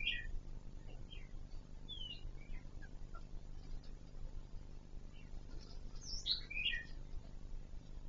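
Short bird chirps and calls: a quick cluster right at the start, a few scattered chirps over the next three seconds, and another cluster about six seconds in, over a low steady hum.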